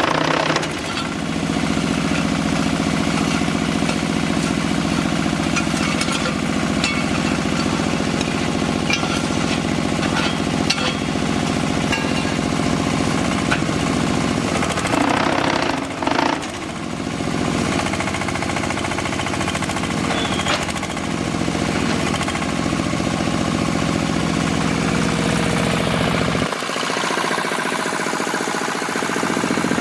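QTJ4-40 diesel-powered hydraulic block-making machine running: a steady engine drone with many short knocks and rattles through it. The sound shifts briefly about halfway through, and its deepest part drops away a few seconds before the end.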